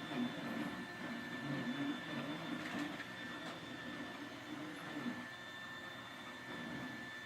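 Roomba robot vacuum running, a steady high motor whine over the whirr of its brushes.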